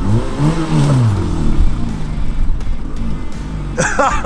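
Car engine revving up and down repeatedly, its pitch rising and falling about once a second, as the car is driven hard through mud.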